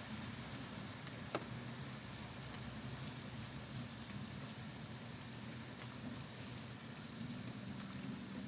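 Steady thunderstorm rain falling, with a low hum underneath and one sharp tap about a second and a half in.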